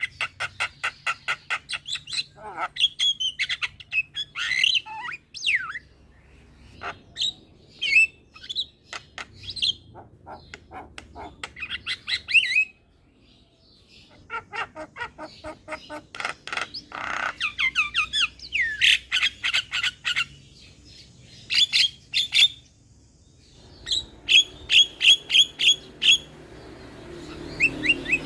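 Javan myna (jalak kebo) singing and calling: rapid runs of short repeated notes, gliding whistles and harsh squawks in bursts, with a brief pause about halfway through.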